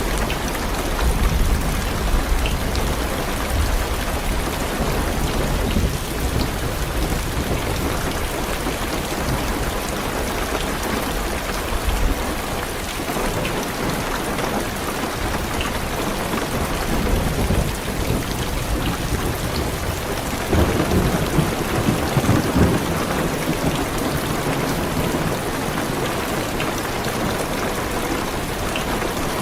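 Rain falling steadily on a car's roof and windows. Low thunder rumbles through the first half, and a louder roll of thunder comes about two-thirds of the way through.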